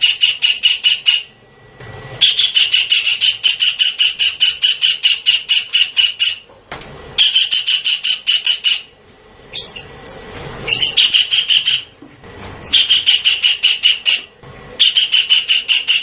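Javan kingfisher call used as a bird-trapping lure: fast runs of sharp, high repeated notes, about eight a second, each run lasting one to four seconds with short pauses between.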